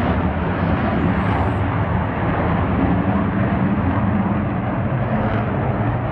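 Airplane engine noise at an airshow: a loud, steady rushing roar with a low hum underneath.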